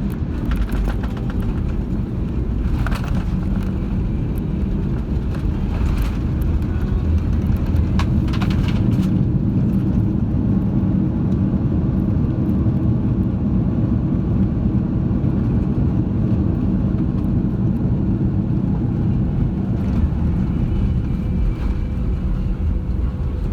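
Airbus A340-600 cabin noise heard from inside: a steady low rumble of the engines and airflow, with a few faint clicks in the first nine seconds or so.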